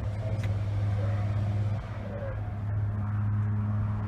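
Steady low mechanical hum, like an engine or machine running at a constant speed.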